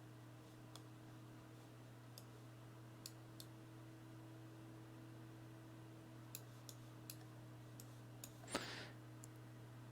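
Faint computer mouse clicks, scattered and irregular, over a steady low hum. A short, louder rustle comes near the end.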